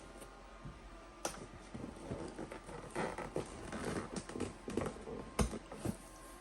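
Handling of a model-airplane kit's box and parts: scattered rustles, light clicks and knocks, with two sharper clicks about a second in and near the end.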